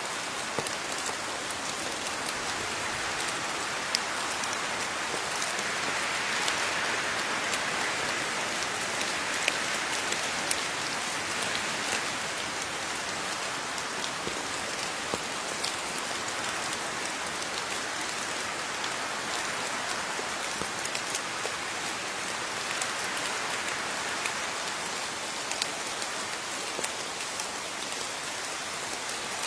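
Steady rain falling on a surface, an even hiss with individual drops pattering and clicking through it.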